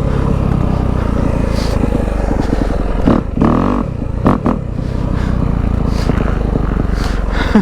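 Dirt bike engine running steadily under way, with a few brief changes in pitch about three to four and a half seconds in.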